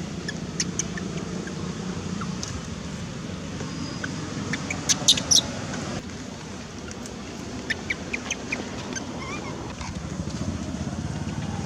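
Short high-pitched animal calls in small clusters, about five seconds in and again around eight seconds, over a steady low rumble.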